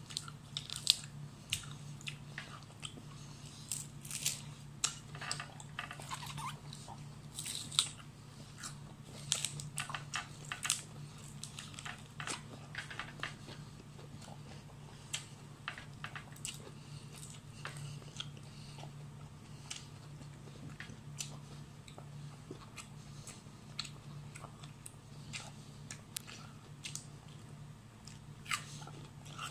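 A person eating fried fish close to the microphone: chewing and crunching, with many short clicks and smacks, busiest in the first half. A steady low hum runs underneath.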